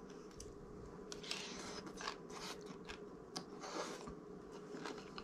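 A person chewing a big mouthful of crunchy green papaya salad: faint, irregular crunching with small wet clicks.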